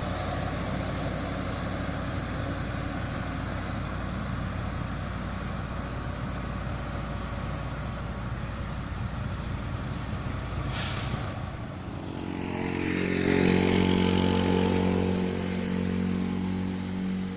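Mitsubishi Fuso heavy truck's diesel engine running under load with a steady rumble. About eleven seconds in comes a short air-brake hiss, then a deep engine note builds and grows louder before easing off near the end.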